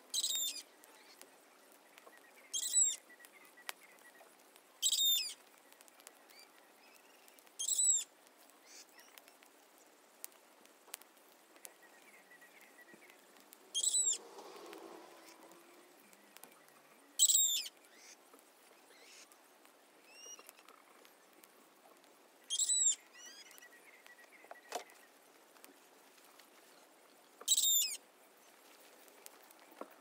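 A bird calling outdoors: a short, high call repeated about eight times, a few seconds apart, over a faint background.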